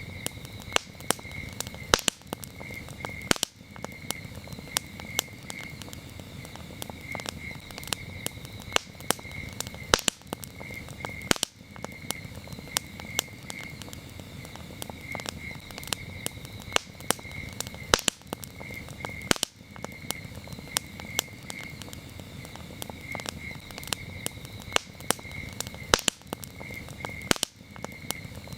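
Wood campfire crackling, with sharp pops several times a second over a low steady rumble of the flames. Crickets chirp in quick pulsed trills in the background.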